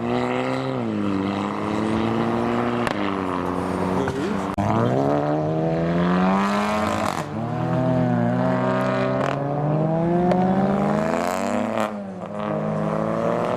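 Modified car engines accelerating away hard, the pitch climbing with the revs and dropping back at each gear change, several times over.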